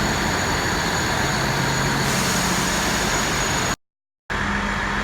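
Diesel trains standing at the platform with their engines idling: a steady rumble with a low, even hum. The sound drops out completely for about half a second near the end, then resumes.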